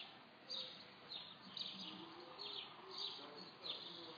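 Small birds chirping faintly: a run of short, high chirps, each dropping in pitch, about two a second.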